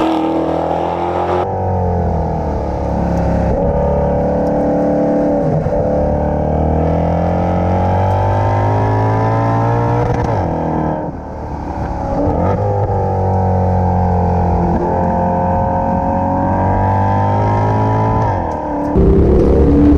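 A sports car's engine accelerating hard through the gears: the engine note climbs and drops back at each of several upshifts. About eleven seconds in it eases off briefly, and near the end the sound cuts to a different engine note.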